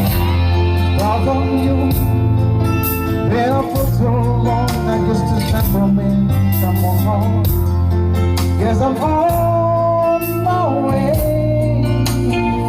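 A person singing a melody over accompanying music with sustained bass notes and guitar.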